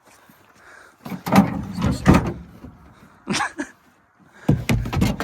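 A series of hard clunks and knocks, in three short clusters spread over a few seconds.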